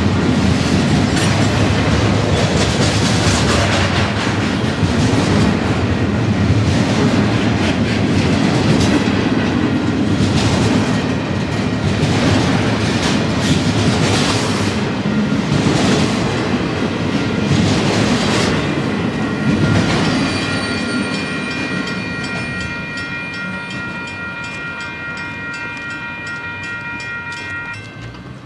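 Double-stack container well cars of a Union Pacific intermodal freight rolling past close by, wheels clicking rhythmically over the rail joints. The passing noise fades over the last third as the train moves away, and a grade-crossing bell rings steadily from about two-thirds of the way in.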